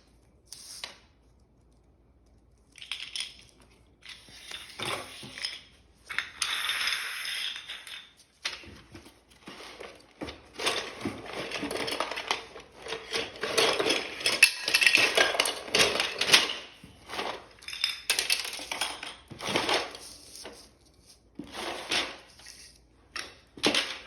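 Hard plastic GraviTrax pieces clattering and clicking together as they are handled and set onto the base board, in irregular bunches of clicks that are busiest around the middle.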